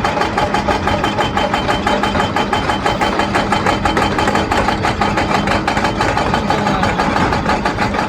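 Heavy construction machine's diesel engine running steadily, with a fast even pulse of about eight beats a second.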